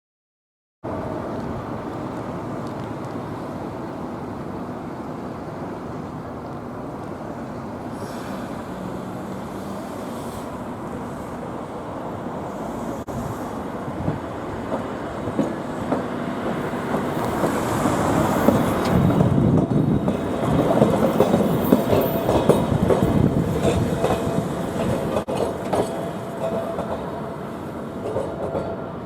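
Fukui Railway street tram running on its rails, the sound building to its loudest about two-thirds of the way through as it passes close, with a few clicks from the wheels over the track, then easing off.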